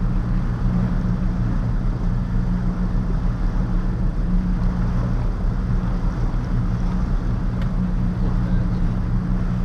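Boat engine running steadily underway, an even low drone that holds the same pitch and level throughout.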